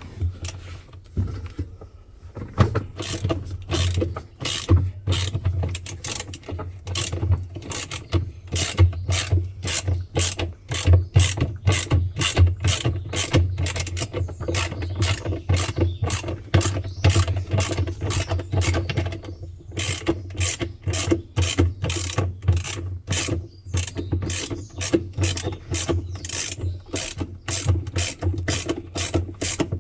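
Rapid mechanical clicking, about two to three clicks a second, over a steady low hum.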